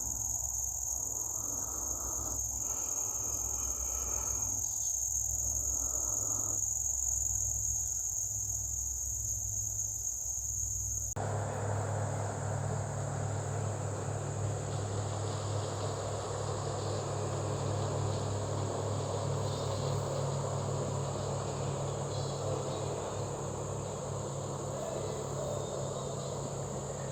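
Steady insect chorus, a high unbroken trill. About eleven seconds in a low steady hum joins it underneath.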